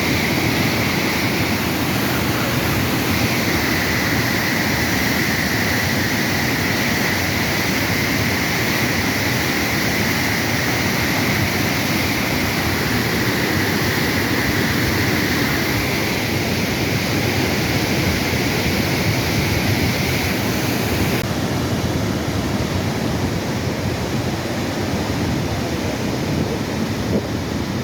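Flash-flood water rushing in a steady, loud roar of turbulent flow, with wind on the microphone. About three quarters of the way through, the sound abruptly turns duller.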